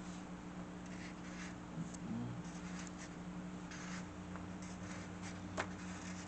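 Drawing strokes on paper: short scratchy strokes at irregular intervals over a steady low hum, with a single sharp tap about five and a half seconds in.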